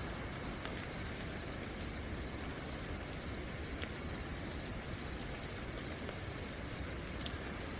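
Steady rain hiss with a continuous high-pitched cricket trill over it, and a few faint drip ticks.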